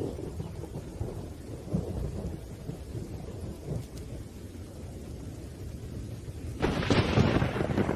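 Thunderstorm: low rolling thunder rumbling under steady rain, then a sudden louder crash of thunder near the end that stops abruptly.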